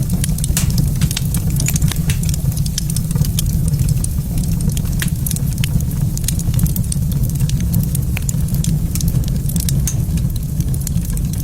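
Wood fire in a fireplace crackling, with many small sharp pops and snaps over a steady low rumble.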